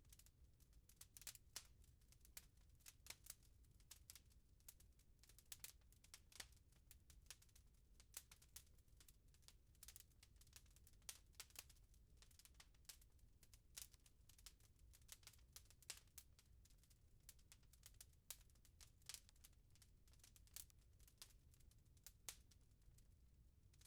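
Wood fire in a fireplace crackling, quiet but with frequent irregular sharp crackles and pops over a low steady rumble.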